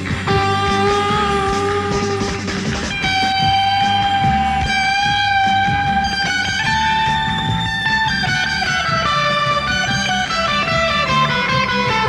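Surf-style instrumental lead on a Fender Telecaster electric guitar played over a backing track with bass and drums. Long held notes waver in pitch, and a run of notes falls in pitch near the end.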